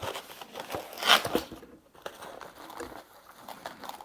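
Irregular rustling and light clicks of small objects being handled, with one louder rustle about a second in.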